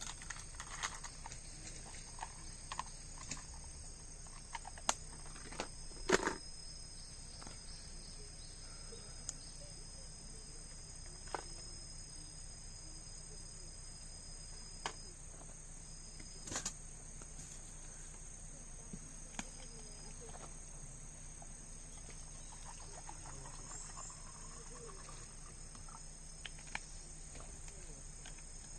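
Steady high-pitched insect chorus at a campsite, with scattered sharp clicks and knocks, the loudest about six seconds in and again about sixteen and a half seconds in.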